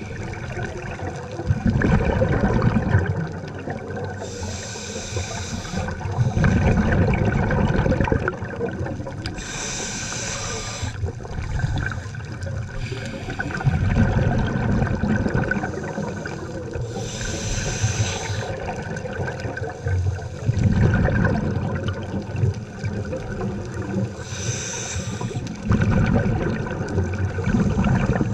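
Scuba diver breathing through a regulator underwater: a hiss on each inhale and a low bubbling rumble as the exhaled air escapes, repeating about four times at a slow, even pace.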